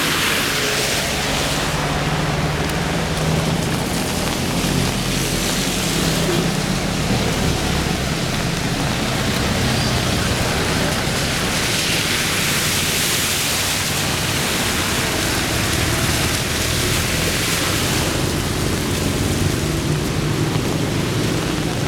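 Heavy rain falling in a steady downpour, with a low steady hum underneath.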